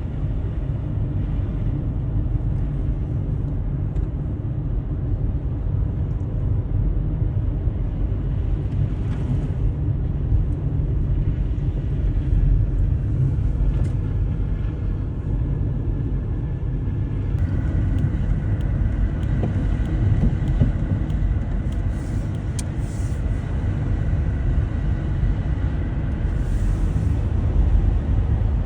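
Steady low rumble of a car driving on the highway, engine and tyre noise heard from inside the cabin. A faint high whine joins about two-thirds of the way through.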